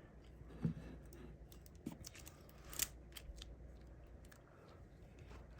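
Faint handling sounds of a diamond painting canvas being shifted into place: a few light taps and clicks, the sharpest nearly three seconds in, with soft rustling between them.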